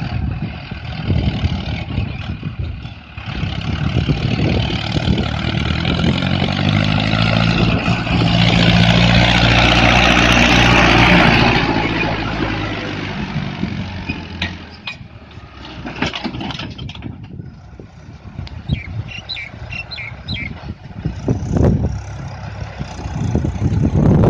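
Mahindra Arjun 555 DI tractor's four-cylinder diesel engine pulling a fully loaded trolley. It grows louder to a peak about halfway through, then fades. In the later part there are knocks and rattles, and the engine is loud again near the end.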